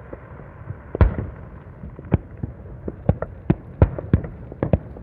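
Aerial fireworks going off: a string of sharp bangs at irregular spacing, the loudest about a second in, and a quicker run of bangs from about three seconds in.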